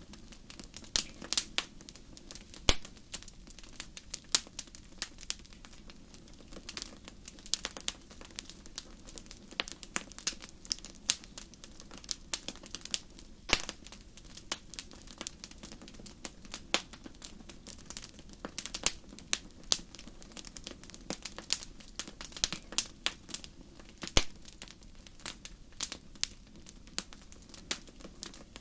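Fireplace fire crackling: constant irregular sharp snaps and pops over a low steady rumble, with a few louder pops standing out.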